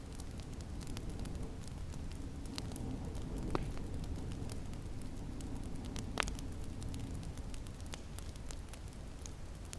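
Wood fire crackling, with scattered small pops and two louder pops about a third and two thirds of the way through, over a low steady rumble.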